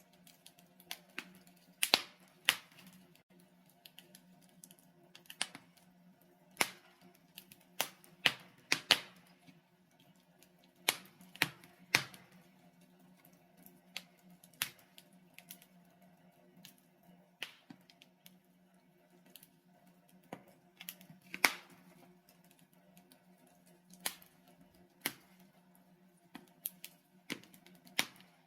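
Burning logs in a fireplace crackling: irregular sharp pops and snaps, a few much louder than the rest, over a faint steady low hum.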